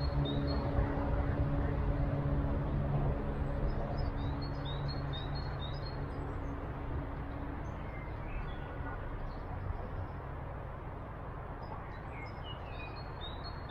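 Small birds chirping in a few short runs of high notes, over a steady low hum and noise that fades out over about the first half.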